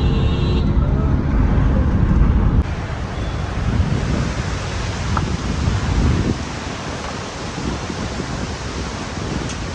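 Low car engine and road rumble for the first two and a half seconds, then an abrupt change to a steady rushing noise outdoors.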